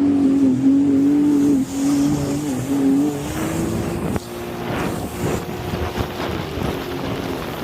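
Jet ski engine running at high revs, a steady note that wavers a little, then drops back about four seconds in, with wind and water noise underneath.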